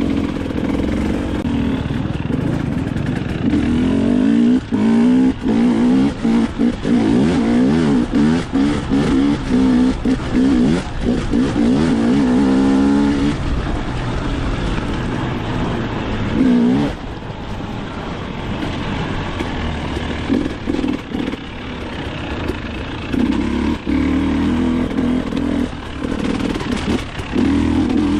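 Dirt bike engine revving up and backing off again and again, with short cuts in the throttle. It eases to a lower, steadier run for several seconds past the middle, then picks up again near the end.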